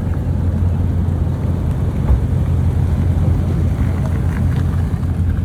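A car running with a steady low drone, wind noise on the microphone over it.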